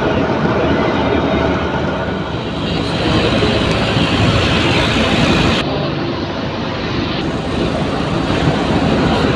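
Loud, steady rumble and hiss of a moving vehicle. The high hiss cuts out for about a second and a half partway through, then returns.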